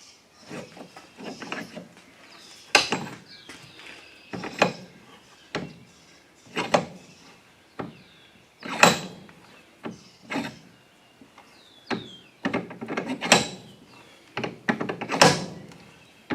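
A lawnmower tire being worked off its steel wheel rim by hand with tools: irregular clunks and scrapes of metal on metal and rubber, about one every second or two.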